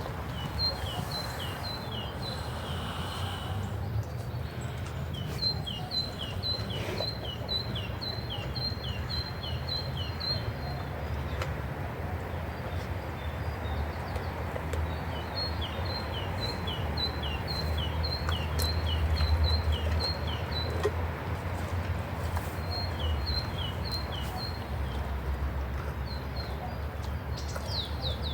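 A songbird singing a rapidly repeated two-note phrase in several bouts of a few seconds each, over a steady low rumble.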